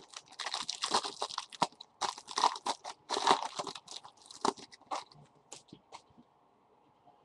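Trading card pack wrapper crinkling and crackling as it is handled, dense for about four seconds, then a few separate light clicks and rustles of cards.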